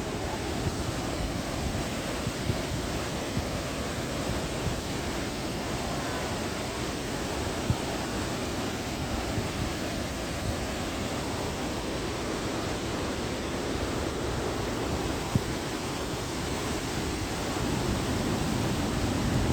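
Steady outdoor rushing noise, heaviest in the low end, with a brief knock about eight seconds in and another about fifteen seconds in.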